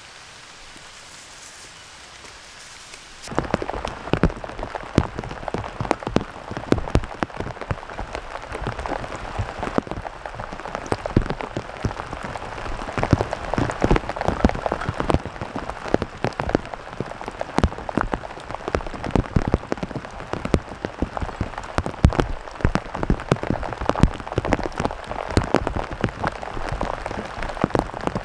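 Heavy rain: a dense, steady clatter of close raindrops striking leaves and surfaces. It starts abruptly about three seconds in, after a soft steady hiss.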